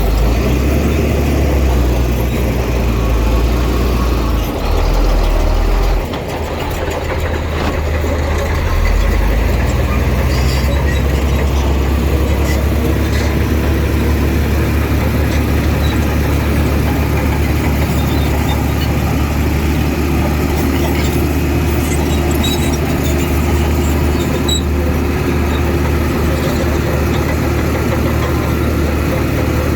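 Heavy diesel engine of earthmoving machinery running. Its low rumble dips about six seconds in, picks up again around nine seconds, and then runs steadily.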